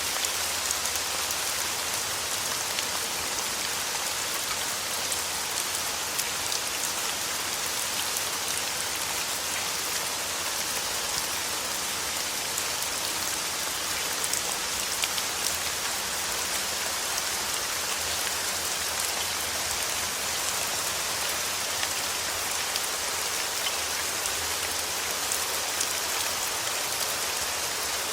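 Steady rain falling, an even hiss sprinkled with fine ticks of individual drops.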